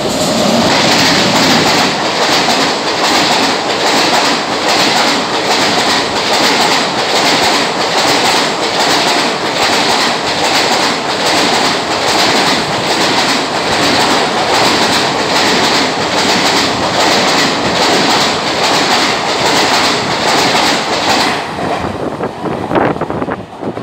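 A long passenger express train of blue coaches passing close by at speed: a loud continuous rush of wheels on rail with a steady clickety-clack as the bogies cross the rail joints. The sound falls away suddenly near the end as the last coach goes past.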